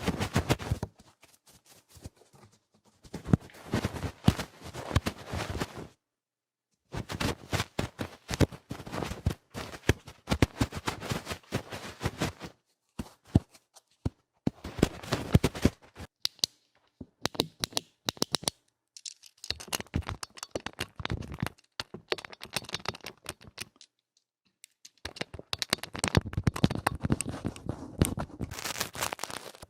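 Close-miked ASMR ear cleaning: rough, noisy scratching and crackling right at the microphone's ear, in runs of quick strokes broken by a few short pauses.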